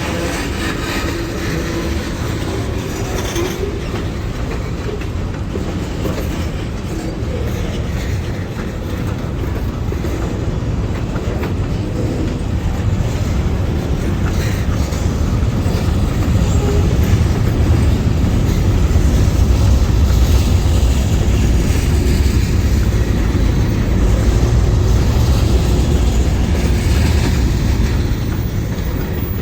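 Freight train rolling past, its car wheels clacking over the rail joints above a steady low rumble that grows louder past the middle and eases off near the end.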